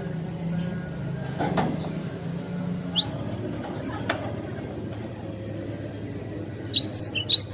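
Cinereous tit (glatik batu) calling: one rising whistled note about three seconds in, then a quick, loud run of sharp high chirps near the end, over a low steady hum.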